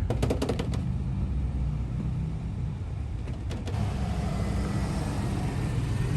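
Truck engine running steadily, heard from inside the cab, with a quick run of clicks at the start.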